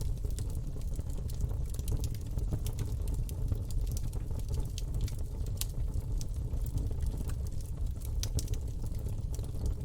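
Campfire burning: a steady low rumble of the flames with irregular crackles and sharp pops of burning wood throughout.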